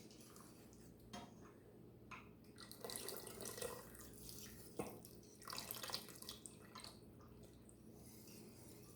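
Milk being poured into a pot of soup, a faint liquid pouring and splashing with a few light clicks.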